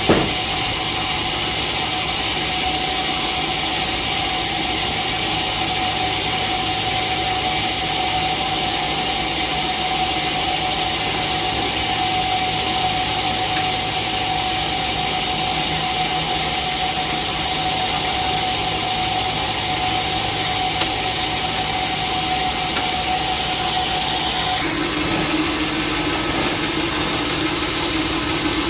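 Sawmill machinery running steadily with a constant whine over a steady engine noise. About four seconds before the end the whine stops and a lower hum takes over, just ahead of the blade cutting wood.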